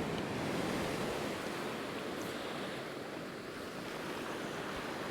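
Sea surf washing onto the beach, a steady hiss with some wind.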